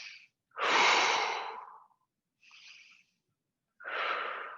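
A woman breathing deeply and audibly: a long out-breath starting about half a second in, a faint short in-breath around the middle, and another out-breath near the end.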